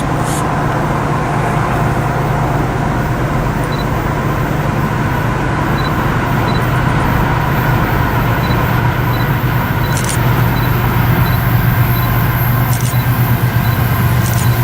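Train rolling past with a steady, loud rumble over a low engine drone.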